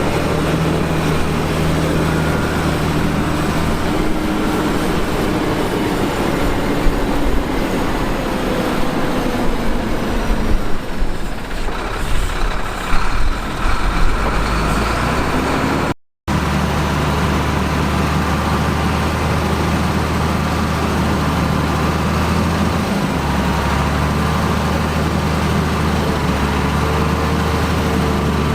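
Diesel engines of heavy earthmoving machinery running steadily. Through the middle stretch there are irregular knocks and scraping. About two-thirds of the way through the sound cuts out for an instant, then the engine runs on steadily.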